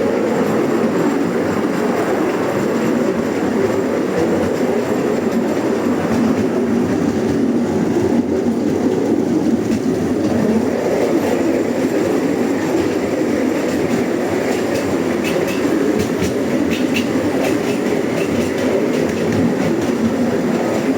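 Steady rumbling and rattling of a moving vehicle heard from on board, with faint small clicks and squeaks in the later part.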